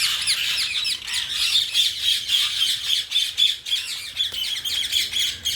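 A flock of rose-ringed parakeets calling together: a dense, continuous chatter of short, high, shrill screeches, many overlapping at once.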